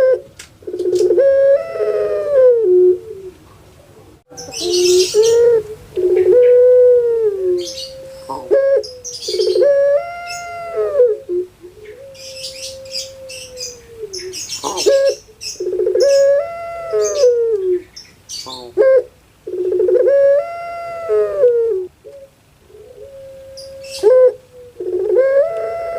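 Puter pelung turtle dove (Streptopelia risoria) cooing over and over, a drawn-out coo every few seconds that rises and then falls, some held on one long note. Higher-pitched chirps break in briefly a few times.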